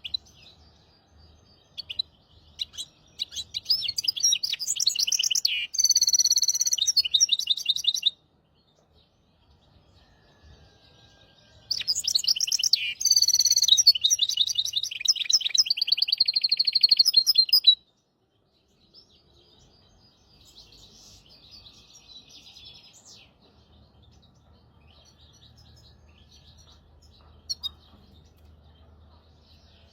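A hybrid finch singing two long, loud phrases of fast trills and buzzy rolls, each lasting about five seconds and separated by a short pause, then softer twittering toward the end. This is a recording of song used to tutor young goldfinches and canaries.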